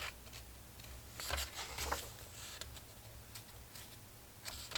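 Faint rustling and light clicks of paper pages in a collage book being turned and handled, in short bursts about a second in and again near the end.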